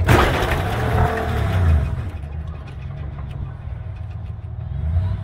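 Tow vehicle's engine revving hard under load for about two seconds, then easing back to a steady low run, during a tug to pull a stuck truck out of a hole; the stuck truck does not come free.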